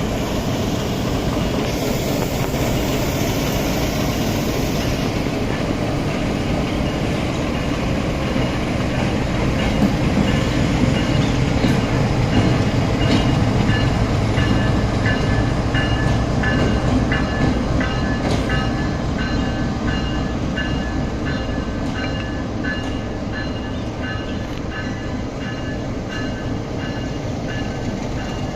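A train in the station runs with a steady low rumble that swells about ten seconds in. From about twelve seconds on, a high two-pitched tone pulses on and off about once a second.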